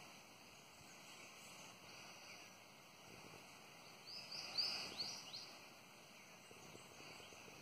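Faint outdoor forest ambience, with a short run of four or five quick high chirps from a bird about four to five and a half seconds in.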